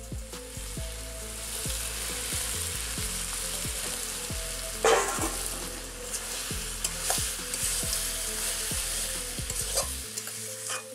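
Chicken curry frying in a metal kadai: a steady sizzle, with a loud burst of sizzling about five seconds in as cut potatoes go into the hot pan. A metal ladle stirs and scrapes the pan.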